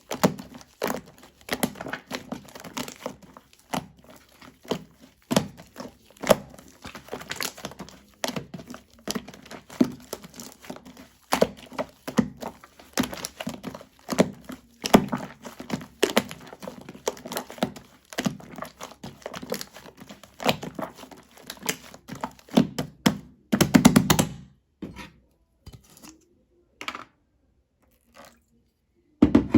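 Shaving foam being squished and pressed by hand, giving irregular crackles, clicks and soft thuds. The handling stops about 24 seconds in, leaving a few scattered touches and one louder one near the end.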